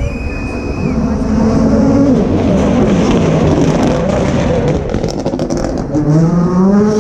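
Rally car engine running hard on a stage, its revs rising and falling through the gears, with a run of sharp cracks about five seconds in, then revving up steeply as it accelerates near the end.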